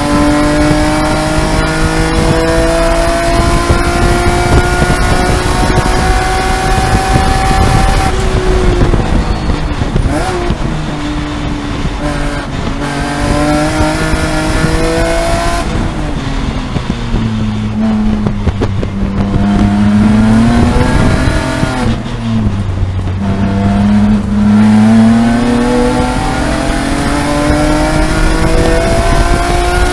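BMW E46 M3's S54 straight-six heard from inside the race car's cabin, pulling hard with its pitch climbing for about eight seconds. The pitch then falls as the car slows, runs low through the slower corners in the middle, and climbs again near the end as it accelerates.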